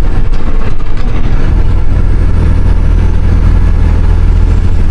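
Western Star semi-truck's diesel engine running with a steady low drone, which grows stronger about a second and a half in.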